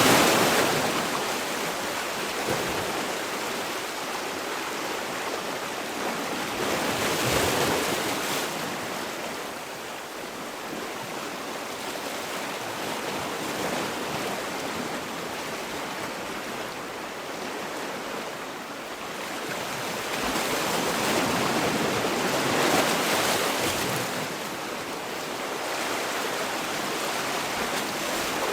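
Sea waves washing on a shore: a steady rush of surf that swells louder and eases off every several seconds.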